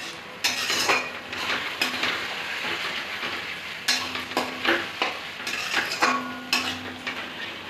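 Onion, ginger-garlic paste and chopped tomato sizzling in hot oil in a pan. A spoon stirs through it and scrapes against the pan, with repeated short strokes over the sizzle.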